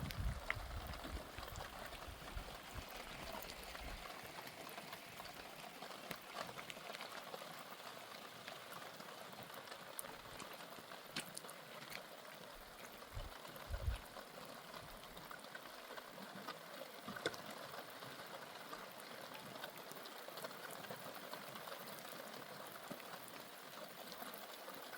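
Steady rain, a faint even hiss with scattered small drips and ticks.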